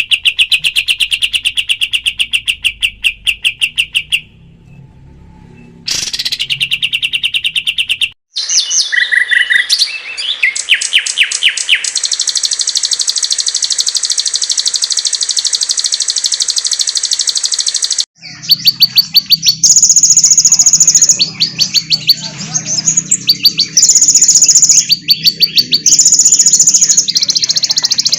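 Spliced recordings of small songbirds: fast repeated high chirps and trills, then a long, steady high buzzing trill, then loud chirping phrases alternating with buzzy trills. Each section starts and stops abruptly where the recordings are cut together.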